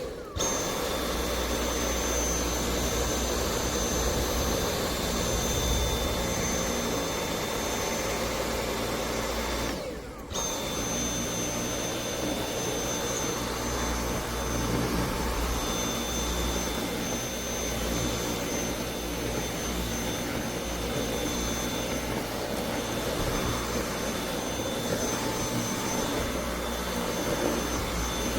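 Dyson V8 cordless stick vacuum running steadily with a high motor whine. The sound cuts out briefly about ten seconds in, then runs again.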